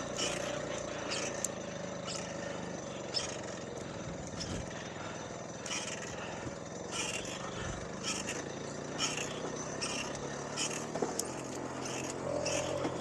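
Small 50cc two-stroke moped engine running steadily, just after a hard start in which it had only half fired before catching.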